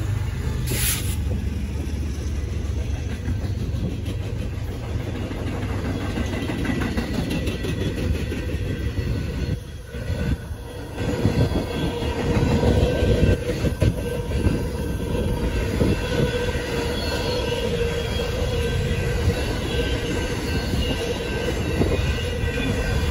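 Freight train passing at a grade crossing. A GE ES44C4 diesel locomotive goes by with a low engine rumble in the first couple of seconds, then the intermodal well cars loaded with trailers and containers roll past with a steady clatter of wheels on the rails.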